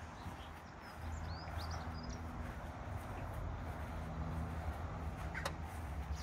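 A few short bird chirps in the first couple of seconds over a steady low hum, with one brief sharp click near the end.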